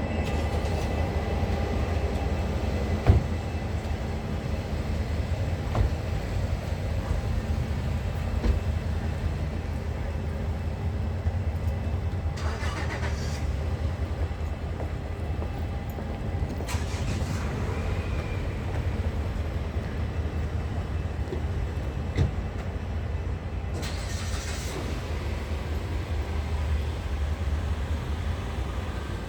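Diesel-hauled passenger train standing after arrival: a steady low diesel rumble, with a few sharp clunks in the first ten seconds and three short hisses later on.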